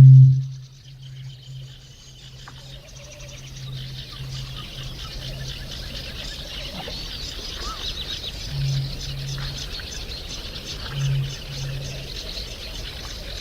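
Eurasian bittern booming: deep, low hoots, the loudest right at the start followed by a run of fading repeats, then two more pairs of booms later on. A steady chorus of high chirping from small birds runs underneath.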